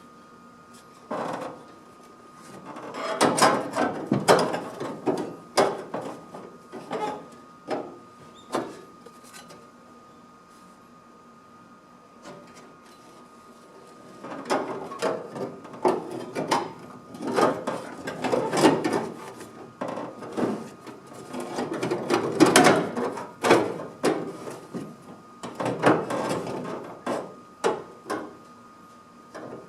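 Bursts of irregular knocking, tapping and clattering from hand work on a small sheet-metal panel, with a quieter pause in the middle, over a faint steady whine.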